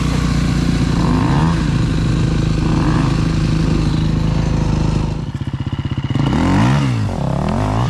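Dirt bike engine running steadily under throttle. About five seconds in it drops to a low, pulsing rpm, then is revved up and back down twice.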